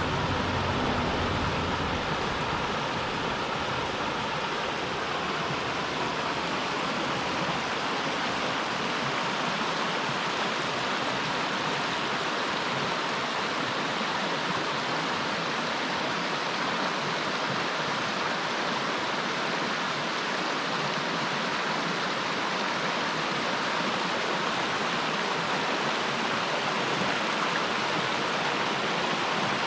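A mountain stream rushing over rocks in a steady, unbroken flow.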